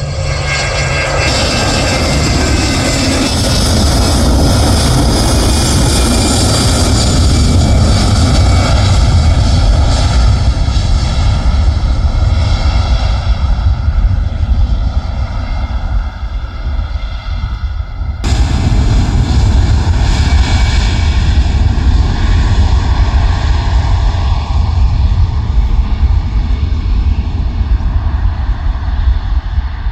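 Airliner engines running loud and steady at close range, a deep rumble under a high turbine whine. The sound breaks off abruptly about 18 seconds in and resumes at once.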